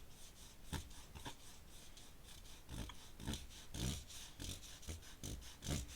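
Pen strokes on paper while shading in ink: a run of faint, irregular scratchy strokes, a few a second, louder ones near the middle and end.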